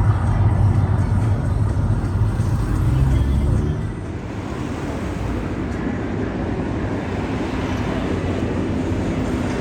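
Deep rumbling of the Mirage volcano show's eruption effects. The rumble is heavy for about four seconds, then eases into a lower, steady roar.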